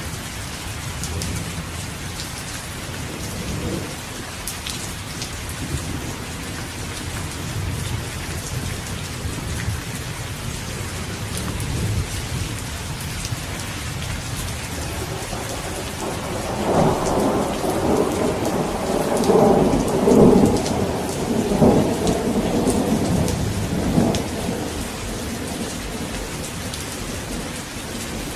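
Steady heavy rain falling on surfaces, with low rumbles of thunder; a louder roll of thunder swells about halfway through and lasts some eight seconds before fading.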